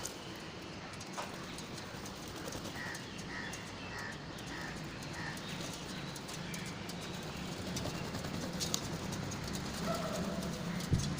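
A bird calling a run of five short, evenly spaced notes, with a low steady hum coming up in the background in the second half.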